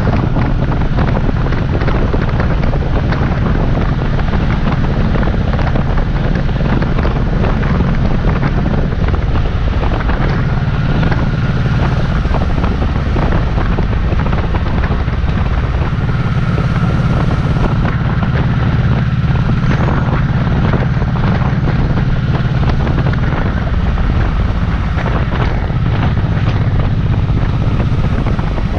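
2006 Honda Shadow Sabre's V-twin engine running at cruising speed, heard from the handlebars with wind buffeting the microphone; the engine note shifts a few times as the throttle changes.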